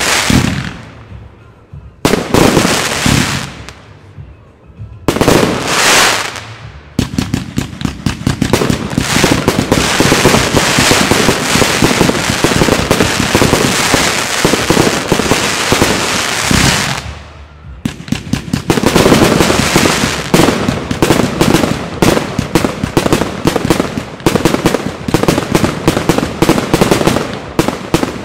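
Aerial firework shells bursting: two or three separate bangs, then about ten seconds of dense, rapid crackling and reports. After a brief lull, a second dense run of rapid bangs and crackles follows.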